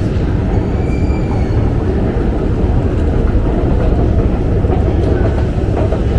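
London Underground Jubilee line train running, a steady low rumble with a faint brief squeal about a second in.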